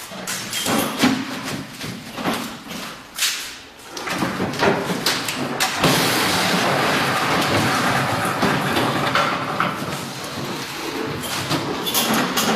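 Non-welding solar water heater inner-tank forming machine at work: a run of irregular knocks and thuds, then a steady noisy running sound from about halfway through.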